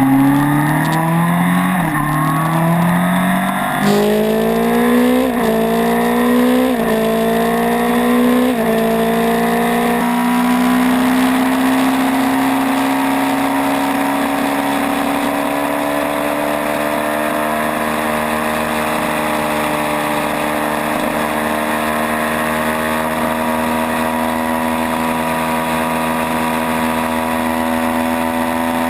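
Superbike engine accelerating hard through the gears: the pitch climbs, drops sharply at each quick upshift several times over the first ten seconds, then holds at high, steady revs that creep slowly higher.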